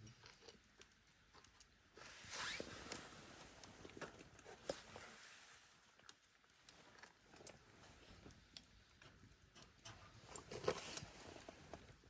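Faint campfire crackling, with scattered small pops and two short swells of hissing rustle, one about two seconds in and one near the end.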